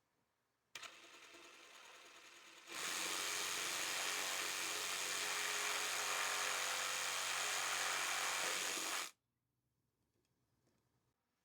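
Handheld electric power tool running: lightly at first, then at full speed from about two seconds in for some six seconds, before it cuts off suddenly. It is likely being used to cut or fit the replacement fascia board.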